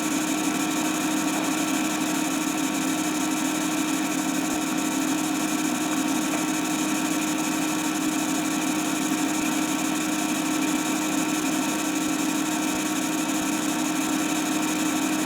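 Steady mechanical hum of a small motor, holding one constant pitch with a few fixed higher whining tones over a light hiss.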